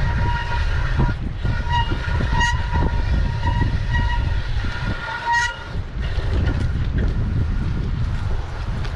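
Heavy wind rumble on the microphone of a moving e-bike, with a steady-pitched whine that cuts in and out several times.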